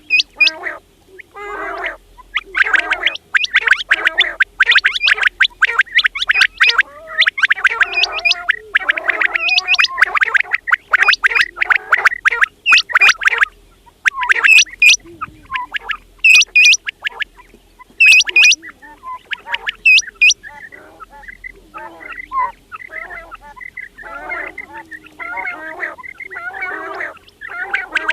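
Quails calling in rapid, overlapping bursts of chattering. A few sharp, high-pitched calls stand out around the middle, and the calling thins out and softens toward the end.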